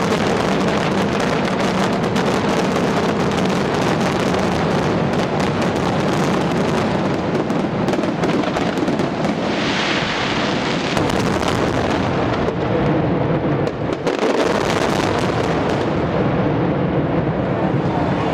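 Fireworks display: a dense, continuous barrage of overlapping bangs and crackles, loud and without a pause.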